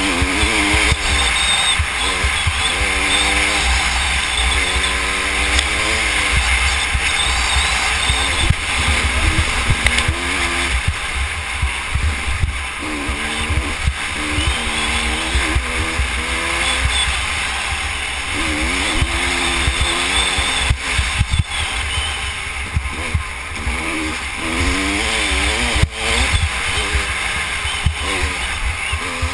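Dirt bike engine revving hard, its pitch climbing and dropping over and over with throttle and gear changes, over heavy wind buffeting on the helmet-mounted microphone.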